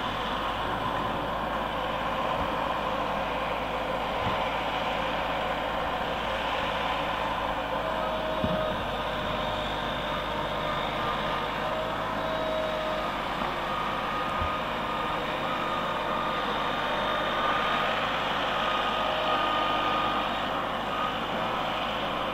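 Heavy vehicle running steadily, a constant noisy drone with a few faint brief tones over it.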